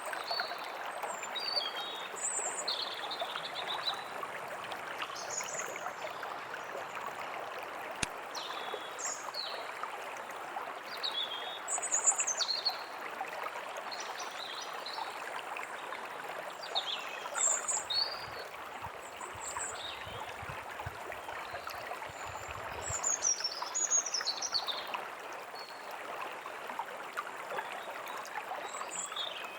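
A steady stream of running water with small birds chirping and calling over it throughout, in short high notes and quick sweeping phrases.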